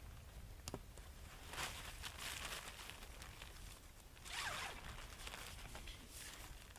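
Nylon tent fabric being handled, with short zipper-like swishes twice and a small click before them.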